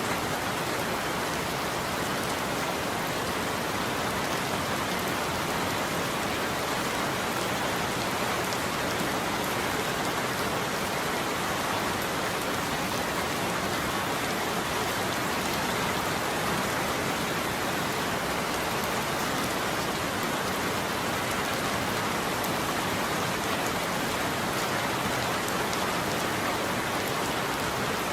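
Steady heavy rain falling on a roof, an even hiss without breaks or thunder.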